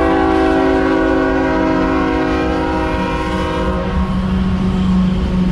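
Freight locomotive's multi-chime air horn sounding one long blast that cuts off about four seconds in, after which the low, steady drone of the train's rumble carries on.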